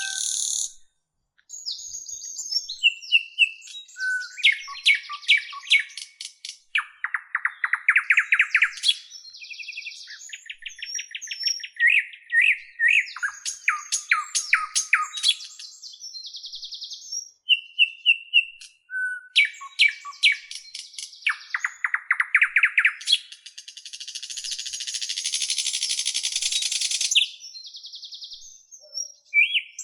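A songbird singing a long, varied song of rapid trills, short whistled notes and clicking rattles, changing phrase every second or two, with a few seconds of harsh, hissing buzz about four-fifths of the way through.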